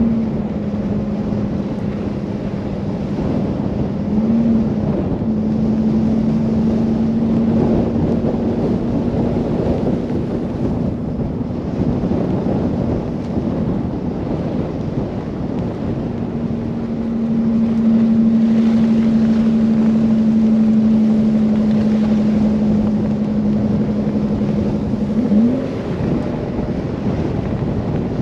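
Car driving through a snow blizzard: a steady engine hum under a dense rush of wind and road noise. The engine pitch rises briefly about four seconds in and again near the end.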